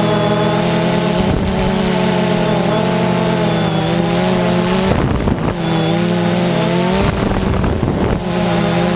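Dirt bike engine running steadily, its pitch dropping and rising again a few times as the throttle changes, with wind noise on the microphone.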